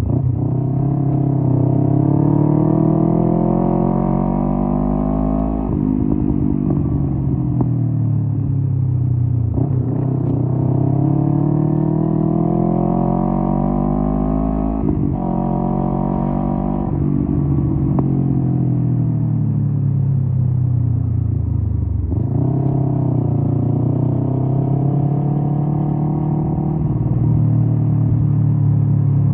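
Kawasaki Z250 motorcycle engine through a SeaPro aftermarket muffler, accelerating and shifting up through the gears: the exhaust note climbs in pitch and drops at each shift, about four times. Past the middle it falls steadily as the bike slows, then climbs again near the end.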